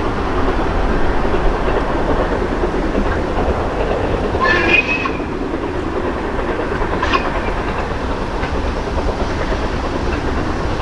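Steam-hauled heritage train running past, with a steady rumble of carriages on the rails. A brief high-pitched squeal sounds about four and a half seconds in.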